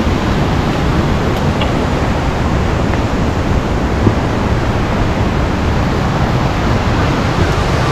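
Steady, loud rush of falling and running water from a mountain waterfall stream.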